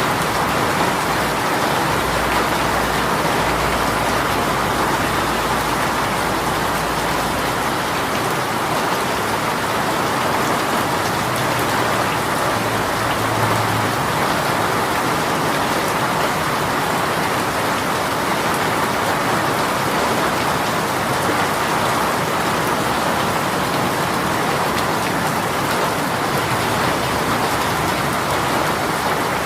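Heavy rain shower falling steadily, a dense even hiss of rain on surfaces.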